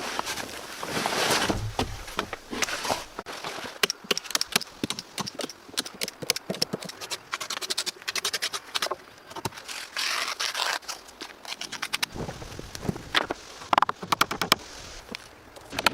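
Synthetic vapor-barrier membrane crackling and rustling as it is handled and pulled over the frame, with runs of rapid sharp crackles and two spells of broader rustling.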